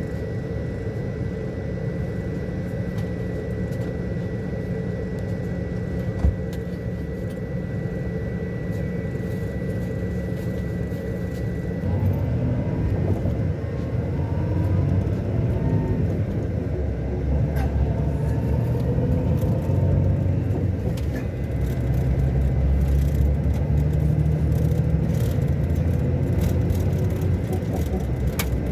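Scania K400 Euro 5 diesel engine of a Marcopolo Paradiso 1800 DD double-decker coach, running with a steady drone. A thin high tone fades out about ten seconds in, and from about twelve seconds in the engine grows louder and deeper.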